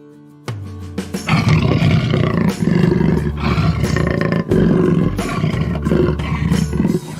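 A big cat roaring in several long, rough bouts over steady background music.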